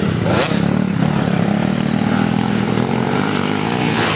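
Motocross dirt bike engine running at a steady pitch without clear revving.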